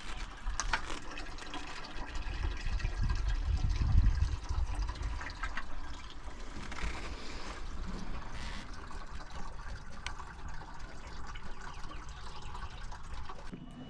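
Liquid pouring and trickling, with scattered clicks and knocks and a louder low rumble about four seconds in.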